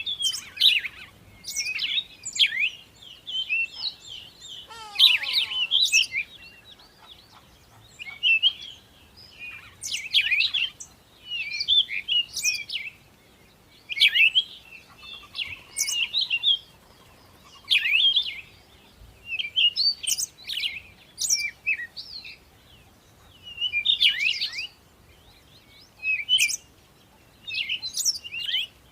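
Songbirds chirping: short, quick phrases of high twittering notes, repeated every second or two, with a brief falling sweep about five seconds in.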